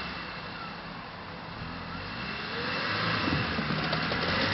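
Off-road vehicle engine running and revving, getting louder from about halfway through.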